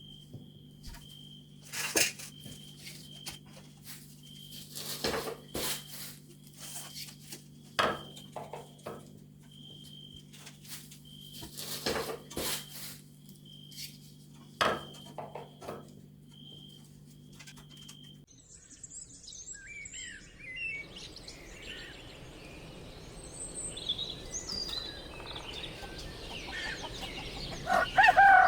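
Scattered knocks and clicks over a steady low hum and a high, pulsing chirp; then, after an abrupt change, birds chirping, with a rooster starting to crow at the very end.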